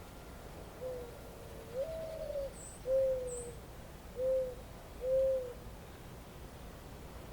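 A dove cooing a five-note phrase: a low coo, a higher drawn-out coo, then three shorter coos. A small bird chirps faintly twice in the middle.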